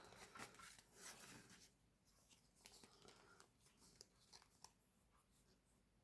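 Near silence with faint, irregular rustles and light ticks of trading cards being handled, dying away after about five seconds.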